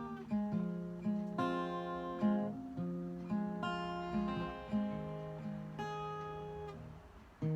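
Acoustic guitar playing an instrumental intro: chords struck about once a second and left to ring, dying away near the end.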